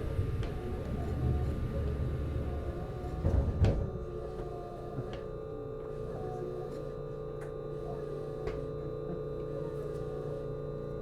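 Interior of a JR East HB-E210 hybrid railcar: rumbling running noise for a few seconds, a loud sudden burst about three and a half seconds in, then a steady hum of several fixed tones from the car's equipment, with a few faint clicks. This fits the train slowing to its stop at a station.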